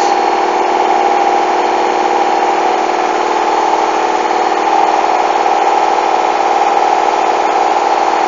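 Hoover washing machine's drum motor running with a steady whine during the final spin, the bedding load badly unbalanced, so the drum shakes and the machine keeps trying to spin without reaching speed.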